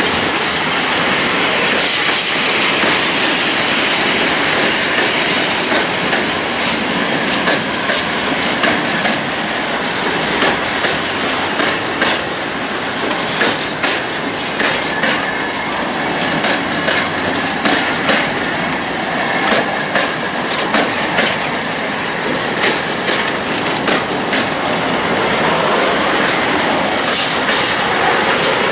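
A train rolling past, its wheels clicking over the rail joints in a long run of sharp knocks over a steady rolling noise.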